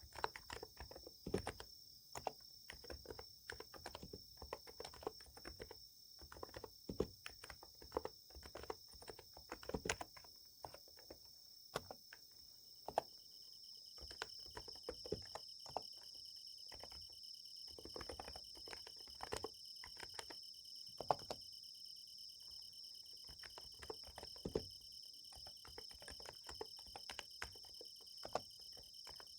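Typing on a Niz Plum X108 electrostatic capacitive keyboard: soft, irregular keystrokes in flurries with short pauses. Underneath, summer-night insects chirr steadily and high-pitched.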